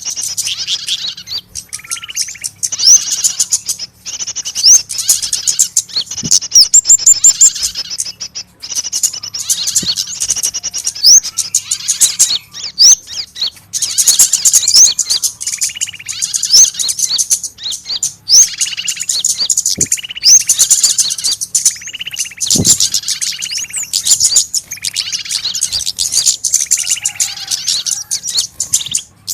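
Dense, rapid chirping and high twittering of small birds, with repeated lower call notes among them and no pause: a bird-lure recording of small birds' distress cries, as of a bird caught and held. Loud, with peaks that hit the top of the recording.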